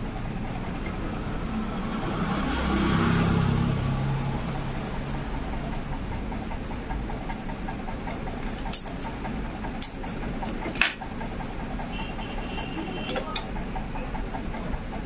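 A steady low rumble like a motor or passing traffic, swelling for a couple of seconds near the start, with four sharp clicks or taps spread over the second half.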